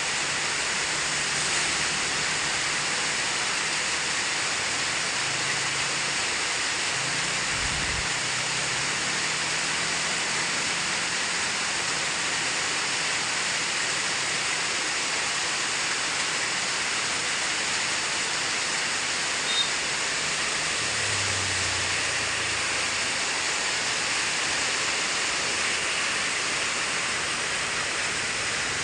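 Steady rain falling, an even hiss that does not let up. A faint low hum comes and goes underneath.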